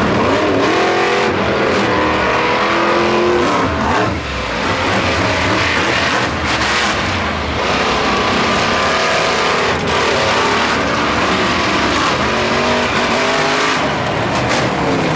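Monster truck engines revving loudly, their pitch climbing and falling again several times.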